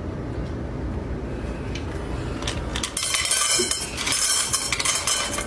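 Steady low rumble, joined about three seconds in by a rapid run of clinking and clattering of hard objects.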